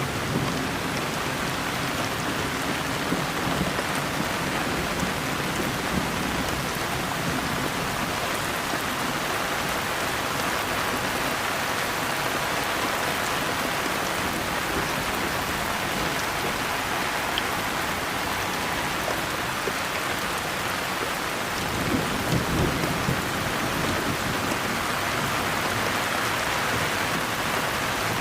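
Steady rain hissing down. A low rumble of thunder trails off in the first seconds, and another brief rumble swells up late on.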